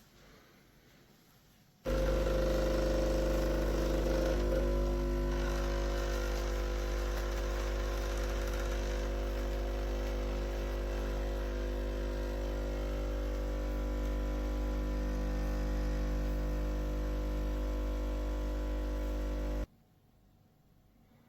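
Neretva 20-bar espresso machine's pump switching on with a steady mains-frequency hum and buzz, running evenly for about eighteen seconds, then cutting off suddenly.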